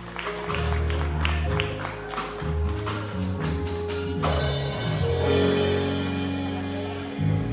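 Live church band music: held keyboard chords over bass, with drum hits in the first few seconds, then sustained chords.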